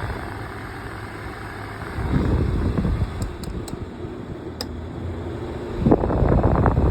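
Window air conditioner running on high fan with a steady low hum and rush of air, with louder rushes of noise about two seconds in and again near the end.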